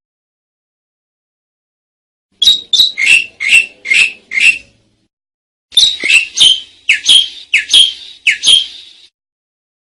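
Asian pied starling (jalak suren) singing in two phrases of quick, loud, repeated notes. The first starts about two and a half seconds in, and the second, of about eight notes, follows about a second after the first ends.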